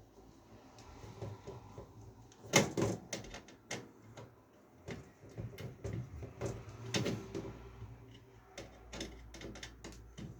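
Irregular knocks, clicks and rattles of computer parts and case hardware being handled and fitted by hand. The sharpest knock comes about two and a half seconds in.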